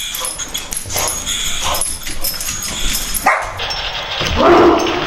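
Boxer dog barking and whimpering while it bites and claws at a car, with scraping and knocking clicks throughout and a louder bark near the end.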